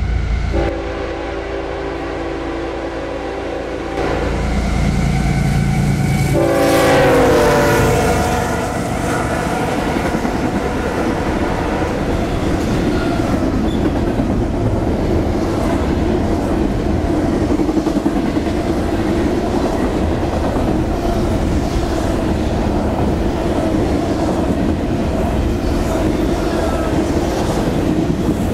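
CSX diesel freight locomotives approaching with the horn sounding a steady chord over the engine rumble. About six and a half seconds in, the horn's pitch drops as the lead locomotives pass. After that comes the steady rumble and wheel clatter of double-stack intermodal container cars rolling by.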